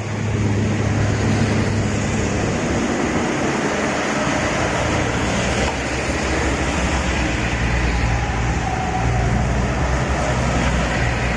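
Heavy road traffic: large diesel vehicle engines running with a steady low drone over a continuous wash of road noise.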